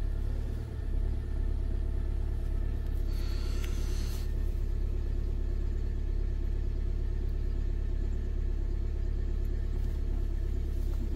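Hyundai Creta's engine idling steadily in the cold, just after being started on its first try following a night of heavy snow.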